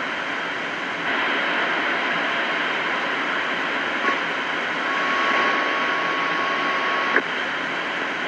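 CB radio receiver hissing with open-channel static between transmissions. About four seconds in, a thin steady whistle, a carrier heterodyne, sets in and cuts off with a click about seven seconds in.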